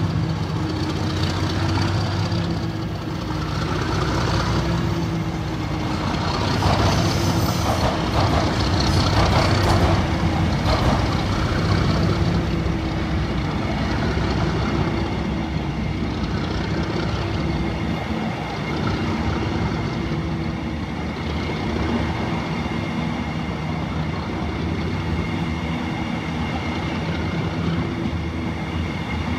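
Locomotive-hauled passenger train moving slowly past: a diesel engine runs steadily with the rumble of coach wheels and a steady whine.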